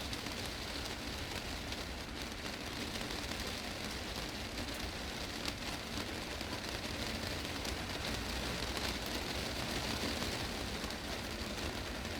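Heavy rain drumming steadily on a glass greenhouse roof, a dense hiss of countless drops striking the panes, swelling slightly a little past the middle.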